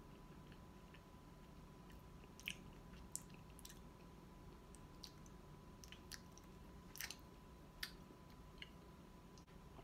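Very quiet chewing of a mouthful of mushy potato salad, with about eight short wet mouth clicks scattered through the second half, over a low room hum and a faint steady tone.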